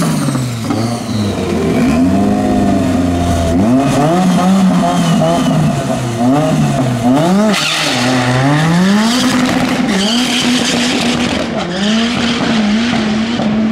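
Turbocharged Ford Zetec four-cylinder engine of a front-wheel-drive drag car, revved up and down repeatedly while it creeps to the start line, then launched at full throttle about halfway through, its pitch climbing steeply as it pulls away down the strip.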